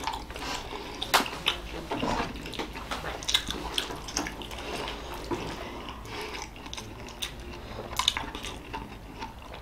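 Wet chewing and mouth sounds of someone eating steamed momos by hand, with irregular short smacks and squelches.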